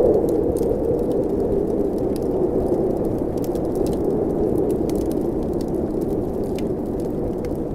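Blizzard wind blowing steadily, easing slightly just after it begins, with the scattered crackles and pops of a wood fire burning.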